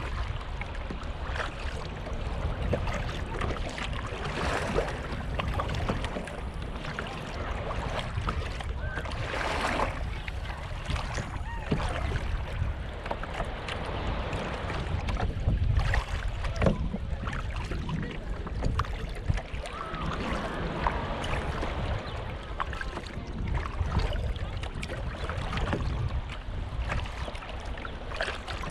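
Kayak paddling on sea water: irregular paddle splashes and water sloshing against the hull, over a steady low rumble of wind on the microphone.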